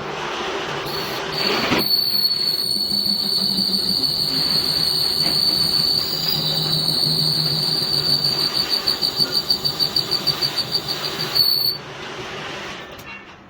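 Metal-cutting tool squealing on a lathe: a steady high-pitched squeal starts a couple of seconds in, pulses toward the end, and stops suddenly, over the steady hum of the running machine.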